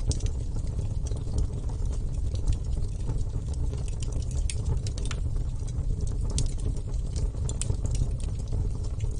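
Wood fire burning: a steady low rumble with irregular sharp crackles and pops from the burning wood.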